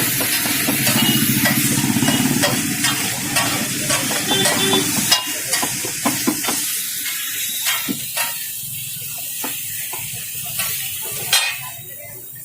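Food frying in a pan, sizzling, with a metal spatula stirring and clicking against the pan many times. A low hum runs under it for the first five seconds or so, then stops, and a louder clank comes near the end.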